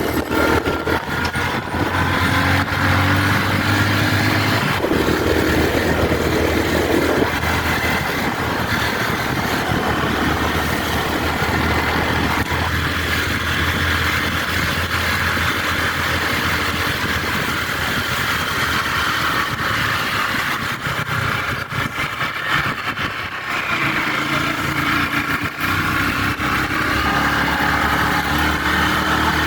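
Motorcycle engine running steadily while the bike is ridden, with the engine note shifting a few times along the way.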